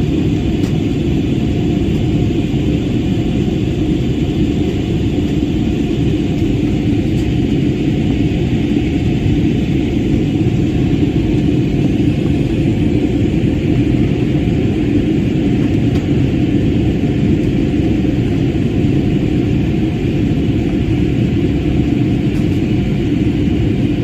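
Airliner cabin noise: a steady, even low rumble of the engines and the air around the fuselage as heard from a passenger seat, with a faint hiss above it and no changes.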